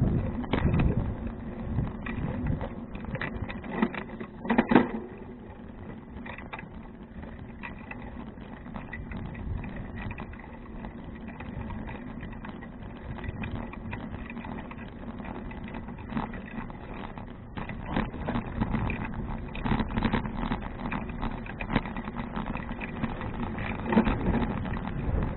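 Riding noise of a touring bicycle picked up by a bike-mounted action camera: tyre and road rumble with wind on the microphone, and scattered knocks and rattles from bumps, the loudest cluster about four to five seconds in. The rumble eases through the middle and grows again near the end.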